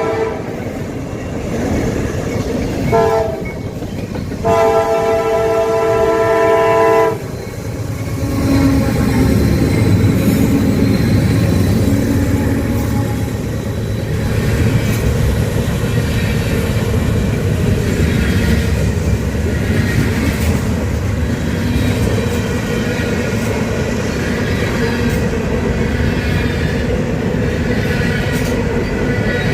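Freight train locomotive's multi-note air horn sounding a short blast and then a long one, followed by diesel locomotives running past and freight cars rolling by with a steady rumble and clatter.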